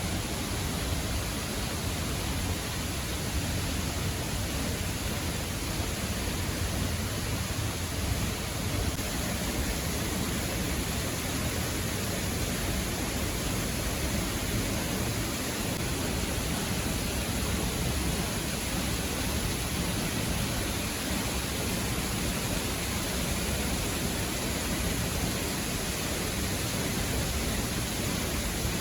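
Steady rush of a 32-metre waterfall pouring into a river gorge, an even noise that never changes.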